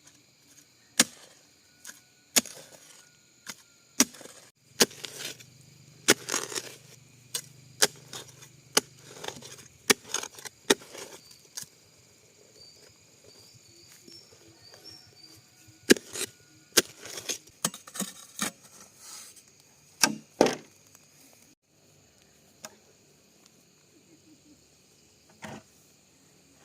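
Bamboo being chopped and split with a blade: irregular sharp knocks, a few close together, growing sparse for the last few seconds.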